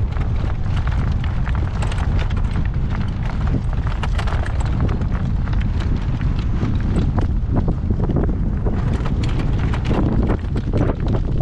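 Hooves of a ridden horse clip-clopping on the ground, a steady run of short knocks, under a constant low rumble of wind buffeting the microphone.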